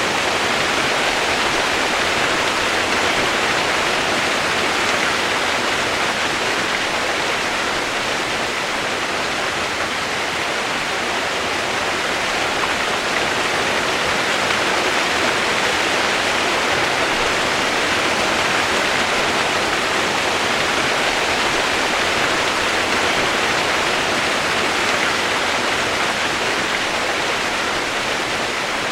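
Rain sound used as white noise: a steady, even hiss with no single drops or thunder standing out.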